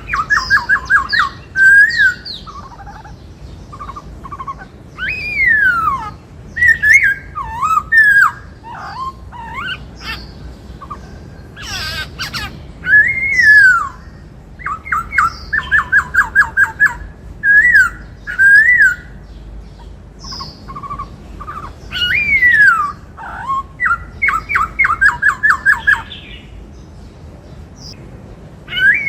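Black-throated laughingthrush singing loudly in repeated bursts: fast runs of quick repeated notes and swooping whistles, with short pauses between phrases.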